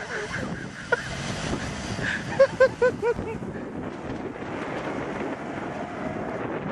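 Vehicle running outdoors, a steady rumble with wind buffeting the microphone. A quick run of about four short, high-pitched chirping squeaks comes about two and a half seconds in.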